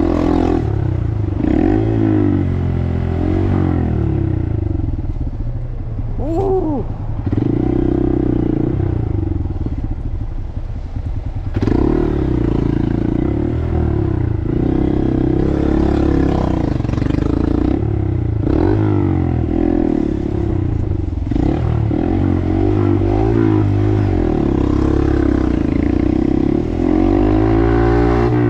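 Small Honda 125 cc single-cylinder motorcycle riding in traffic, its engine note rising and falling as it revs and shifts through the gears. It eases off for several seconds a few seconds in, then pulls away again.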